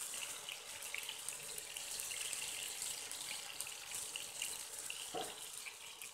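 Gola kababs shallow-frying in hot oil in a nonstick pan: a steady sizzle peppered with small crackles and pops, fading near the end.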